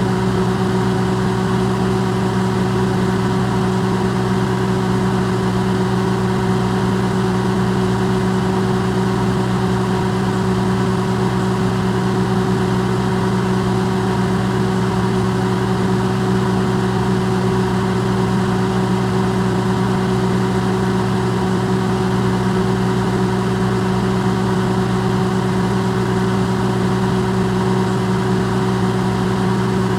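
Electrolux microwave oven running: a steady, unchanging electrical hum with a low drone and even whirring noise over it.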